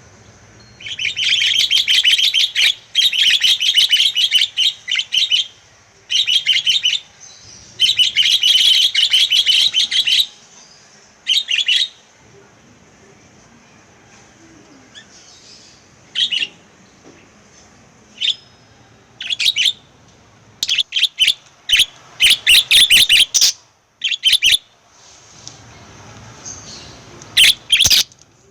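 Pet lovebirds chirping in loud, rapid, high-pitched bursts: long runs of chirping over the first ten seconds, then shorter scattered chirps and another dense flurry about three quarters of the way through.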